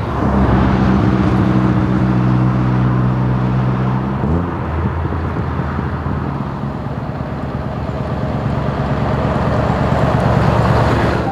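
Heavy truck's diesel engine running at a steady pitch, then rising about four seconds in to a rougher, pulsing note that grows louder toward the end.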